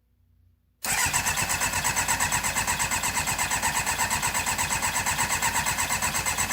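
MV Agusta 750 F4's inline-four engine being cranked on its electric starter without firing. It starts abruptly about a second in and keeps going as a steady, even churning beat of about five pulses a second. The spark tester shows a spark, so the owner suspects a fuel delivery problem.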